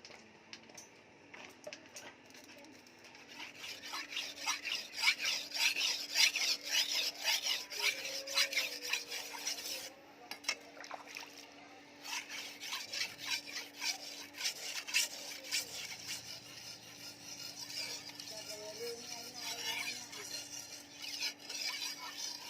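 Rapid, repeated hand strokes of steel scraping against an abrasive, as in working the edge of the bearing-steel sword blade. The strokes are loudest from about three to ten seconds in, pause briefly, then carry on more softly.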